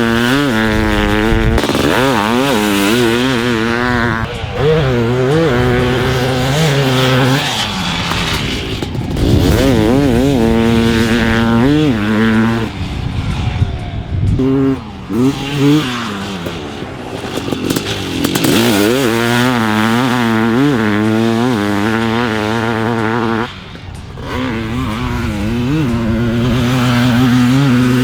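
Highly modified Honda CR500 500cc two-stroke dirt bike engine ridden hard, revving up again and again and dropping back as the throttle is rolled on and off through the gears. It goes quieter and choppy briefly in the middle and cuts out sharply for a moment near the end before pulling hard again.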